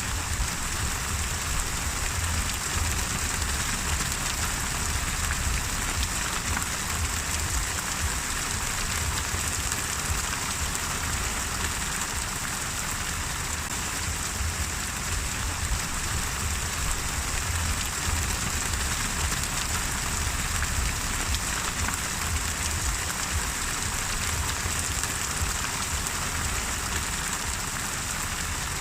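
Steady rain falling on a surface, an even hiss of many drops with a low rumble underneath.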